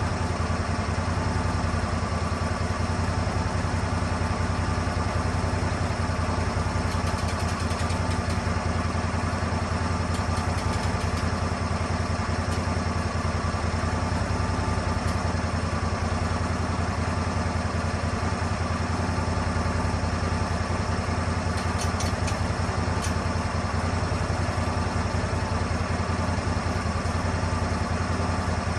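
Engine of a Lucas Mill 10-30 portable swing-blade sawmill running steadily at an even speed, with a few faint ticks about three-quarters of the way through.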